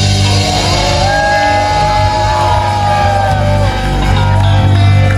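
A live rock band playing the closing bars of a song. A steady low bass note is held throughout, while a lead line above it slides up and down in pitch.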